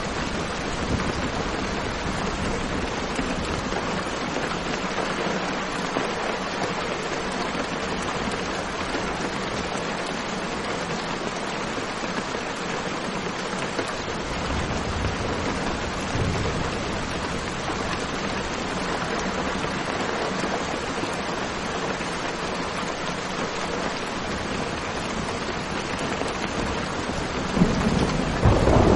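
Steady heavy rain with low thunder rumbling in the background; a louder thunder rumble near the end.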